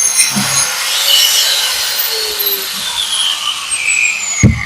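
Angle grinder with a diamond cup disc, used for milling the face off bricks, switched off about half a second in. Its whine falls steadily in pitch as the disc spins down. A loud thump comes near the end.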